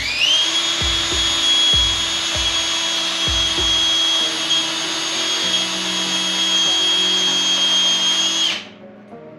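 Electric power tool motor spinning up to a steady high whine, running for about eight seconds, then cutting off, over background music with a beat.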